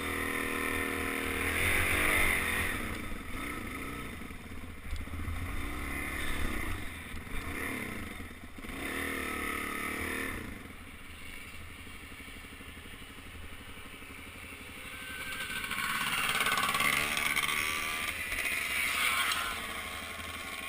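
Suzuki DR-Z400 single-cylinder four-stroke dirt bike engine revving up and down on a trail ride, its pitch rising and falling again and again. It eases off for a few seconds in the middle, then gets louder again near the end.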